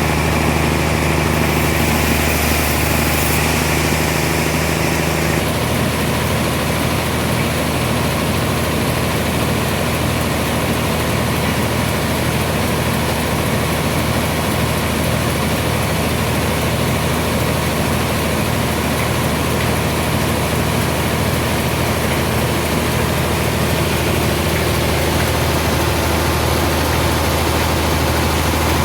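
Sawmill machinery running steadily with a continuous engine-like drone; its tone shifts slightly about five seconds in.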